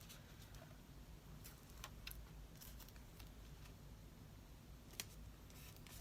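Near silence: room tone with a few faint scattered clicks, the clearest about five seconds in.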